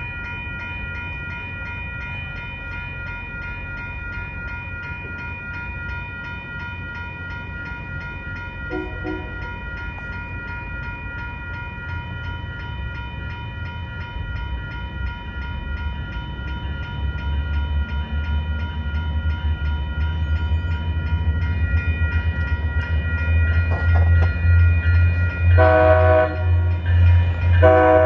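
WES Colorado Railcar diesel multiple unit 1001 approaching, its diesel engine rumble growing steadily louder, over a steady high-pitched ringing. A brief faint horn toot comes about nine seconds in, then two loud horn blasts near the end.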